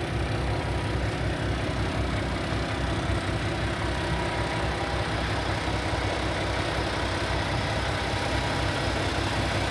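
Paccar MX-13 inline-six diesel engine of a Peterbilt 579 semi tractor idling steadily, with an even low pulse.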